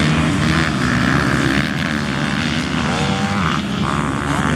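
Dirt-bike engines running and revving on a grasstrack circuit, their pitch rising and falling as the riders work the throttle.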